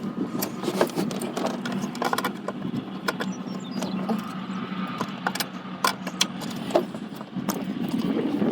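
Scattered sharp clicks and light clatters of clips, hoses and parts being handled in a pickup's engine bay, over a steady background hum.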